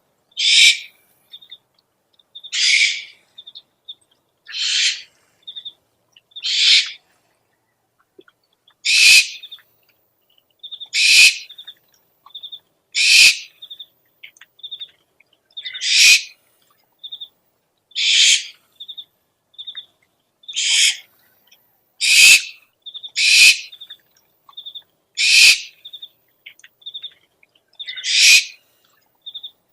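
Owl calls: a harsh, hissing screech about half a second long repeated roughly every two seconds, with short high chirps in between.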